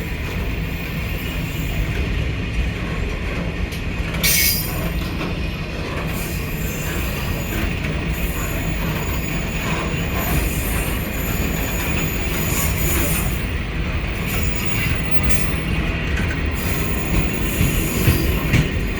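Passenger train running on the rails: a steady low rumble of the wheels with a high, drawn-out wheel squeal over it, and a short burst of hiss about four seconds in.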